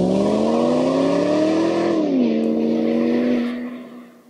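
Car engine accelerating, its pitch climbing steadily, then dropping once about two seconds in as at a gear change. It holds steady and fades out near the end.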